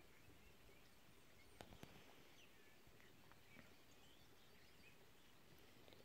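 Near silence of open countryside, with faint, scattered bird chirps and two soft clicks about a second and a half in.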